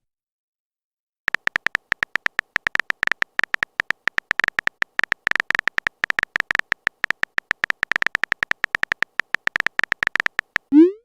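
Phone-keyboard typing sound effect: after about a second of silence, a fast, irregular run of short beeping clicks like keys being tapped, followed near the end by a quick rising blip.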